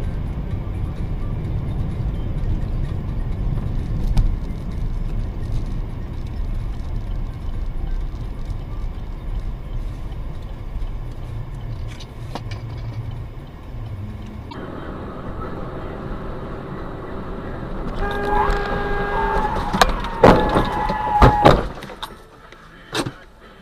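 Car road and engine rumble on a dashcam, which changes abruptly partway through. Near the end a car horn sounds, with a few loud sharp bangs among its blasts.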